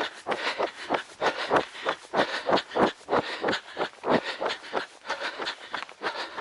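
Running footsteps on a trail, an even patter of about three strides a second, recorded close to a camera carried by a runner.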